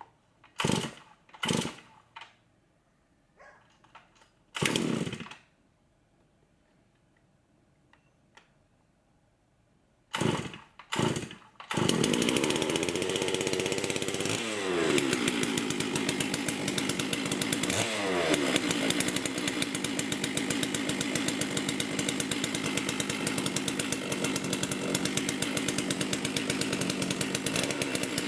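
Holzfforma G660, a 92cc two-stroke chainsaw, being pull-started for the first time. There are a few short pulls, a pause, and two more pulls; then it catches about twelve seconds in and keeps running, its pitch shifting twice soon after.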